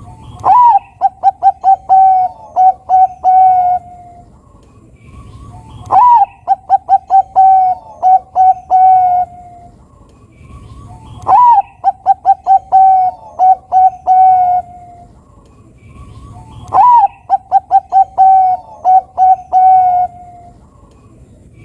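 Zebra dove (perkutut) of the Thai 'Bangkok' song line singing four near-identical phrases about five and a half seconds apart. Each phrase opens with an upswept note, then runs into a quick string of short coos and ends on a longer held coo.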